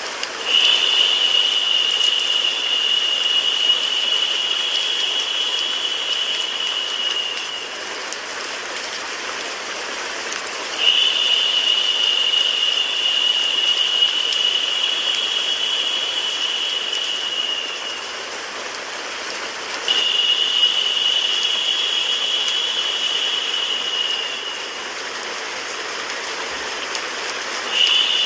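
Steady rain and white-noise hiss. A brighter, high, even hiss layer comes in four times, roughly every nine seconds, and lasts about five to seven seconds each time; the last one starts near the end.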